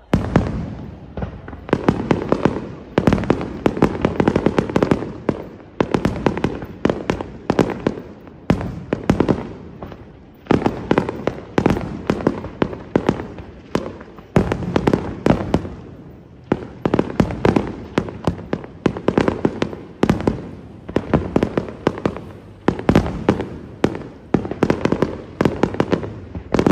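A Senatore Fireworks aerial display going off in a dense barrage of bangs and crackles, many reports a second, starting abruptly. It comes in waves that swell and ease every second or two.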